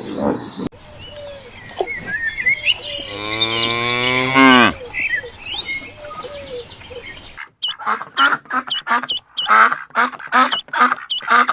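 A cow mooing once, a long low call that drops in pitch as it ends. About seven seconds in, a fast run of short repeated animal calls follows, roughly two a second.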